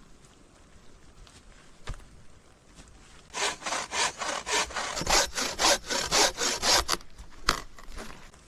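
Hand saw cutting wood in quick, even back-and-forth strokes, about three to four a second. The strokes start about three seconds in, run for roughly four seconds, and end with one last stroke shortly after.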